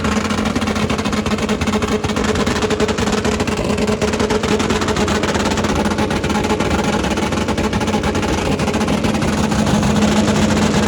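A car engine held at high, steady revs, with a dense, rapid crackle over a constant pitch.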